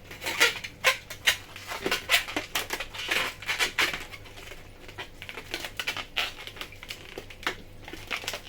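Latex modelling balloon being twisted and handled: a quick, irregular run of short rubbing squeaks and crackles, busiest in the first half.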